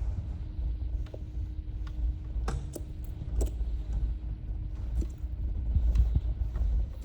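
Several sharp metallic clicks and clanks from a socket and wrench turning the engine's crankshaft over by hand, over a steady low rumble of wind on the microphone.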